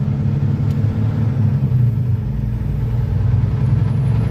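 Semi truck's diesel engine running steadily under way, a low drone heard from inside the cab as the rig drives through a roundabout.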